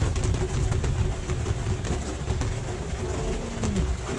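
Steady low engine rumble with a constant hum, running evenly throughout.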